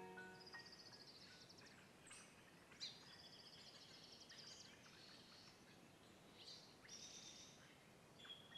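Faint outdoor ambience with small birds chirping in short repeated trills over a soft hiss; the last note of a piano fades out at the very start.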